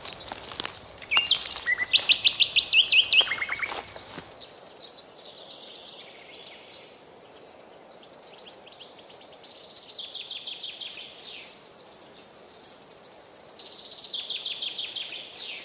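Wild birds singing: for the first few seconds a loud bird repeats a rapid series of sharp, high notes, then a song phrase of quick descending notes comes back about every three to four seconds. A faint background hiss drops away suddenly about four seconds in.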